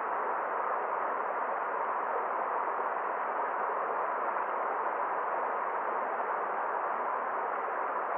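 Forest stream running steadily: an even, unbroken rush of water with nothing else standing out.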